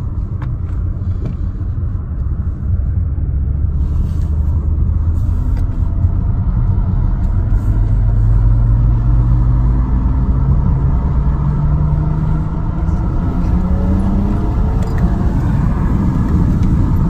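BMW N54 twin-turbo inline-six heard from inside the cabin, accelerating in fourth gear. Its engine note rises steadily from about two seconds in until near the end, over a constant low rumble.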